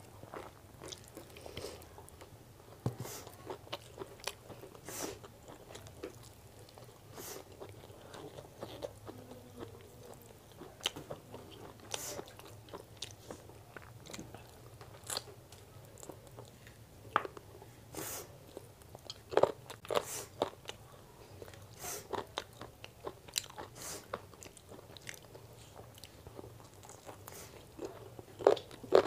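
Close-miked chewing of chicken biryani eaten by hand: wet mouth sounds and lip smacks in irregular short clicks, a few of them louder about two-thirds of the way through.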